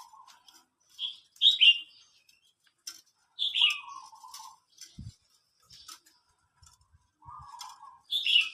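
Birds chirping: several loud, short chirps that slide downward, with softer, lower warbling notes between them and scattered light clicks.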